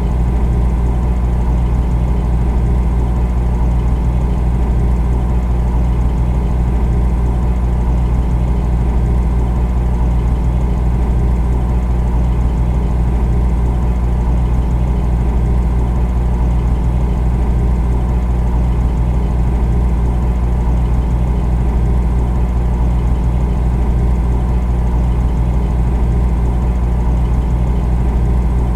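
Refrigerator running: a steady low hum that does not change.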